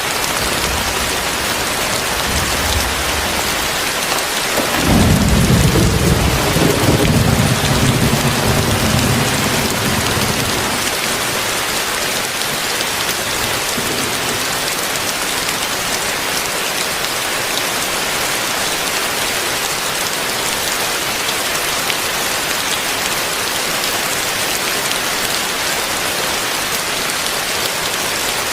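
Heavy rain falling steadily, with a rumble of thunder about five seconds in that dies away over the next several seconds.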